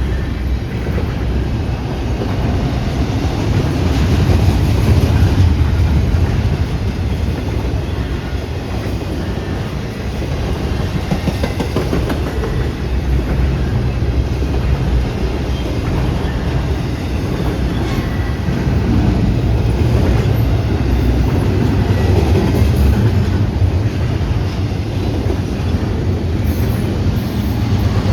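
A train running past on the rails: a loud, steady rumble of wheels on track with continual clicking over the rail joints.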